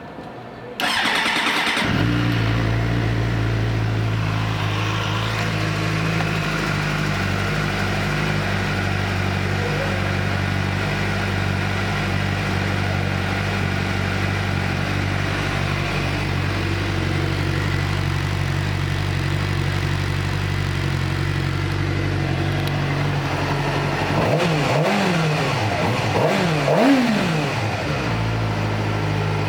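2009 Suzuki GSX-R600's inline-four engine with a Yoshimura aftermarket exhaust starting up about a second in and idling steadily. Near the end it is blipped through a few quick revs and then settles back to idle.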